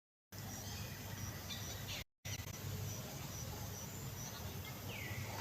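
Outdoor ambience: faint, repeated high insect chirps over a steady low hum and hiss, with a short falling call near the end. The sound cuts to dead silence briefly at the start and again about two seconds in.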